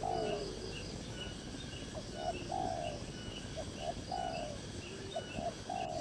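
A bird calling in a repeated low phrase: two short notes, then a longer, slightly falling note, about every one and a half seconds. A thin, high chirping runs steadily behind it.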